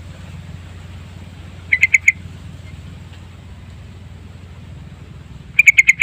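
Sooty-headed bulbul calling: two quick bursts of about four short notes each, about two seconds in and again near the end, over a steady low hum.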